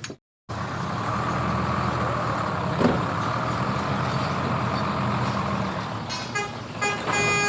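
Truck engine running steadily. Near the end the horn sounds several short toots and then one longer blast.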